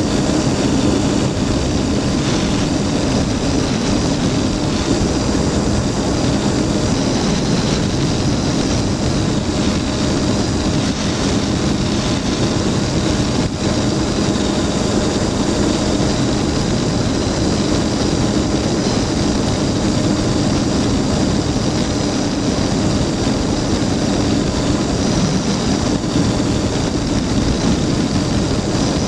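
Flightstar II light-sport aircraft's engine and propeller running steadily at a constant pitch.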